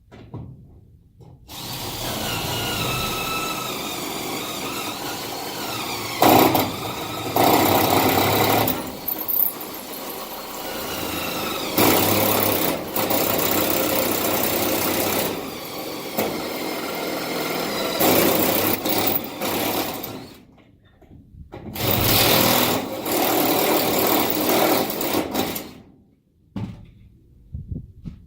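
Cordless drill running in long stretches as it bores holes, its motor pitch rising and falling under load. It stops briefly about two-thirds of the way through, then runs again and stops near the end.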